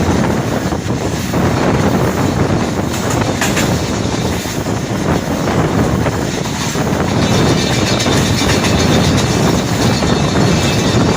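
Pakistan Railways passenger train, the 48 Down Rehman Baba Express, running along the track: a loud, steady rumble of wheels on rails.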